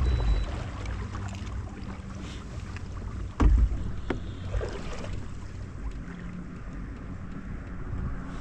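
Knocks and bumps on a kayak, the loudest a single thump about three and a half seconds in, over a low rumble of wind on the microphone.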